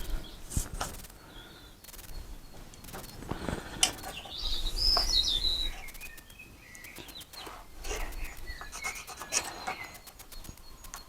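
A bird chirps a short wavering phrase about four to five seconds in, over scattered light clicks and knocks.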